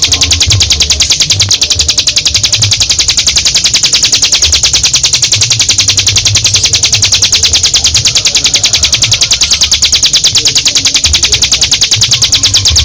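Mountain prinia (ciblek gunung) singing its long, unbroken high trill of very rapid pulses, the 'ngebren panjang' song that keepers use to train other songbirds.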